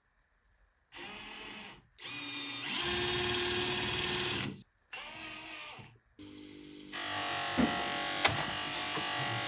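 A small electric power tool running in several separate stretches, each starting and stopping abruptly, with a steady hum that is loudest from about three seconds in and again from about seven seconds in.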